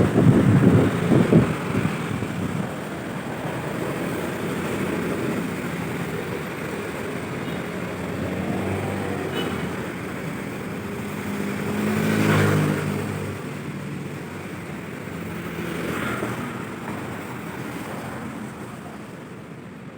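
Street traffic noise with wind buffeting the microphone at first. A motor vehicle passes about twelve seconds in, its engine swelling and fading, and a smaller one passes a few seconds later.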